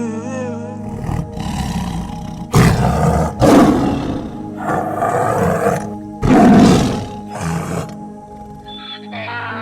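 A big cat roaring: a series of deep, rough roars, loudest about two and a half, three and a half and six seconds in, over soft background music.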